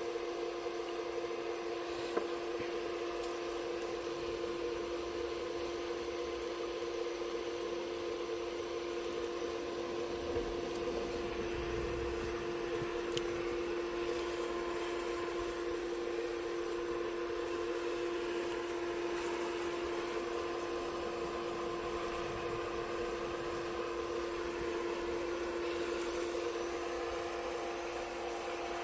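A steady mechanical hum with a constant pitch, with a few faint clicks.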